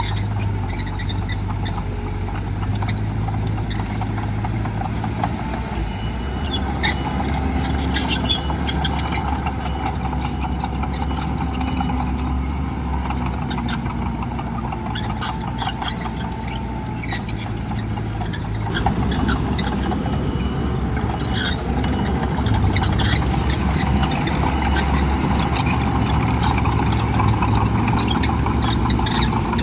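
Diesel engines of heavy earthmoving machines running, with scattered metallic clanks and knocks; the engine note changes pitch a couple of times.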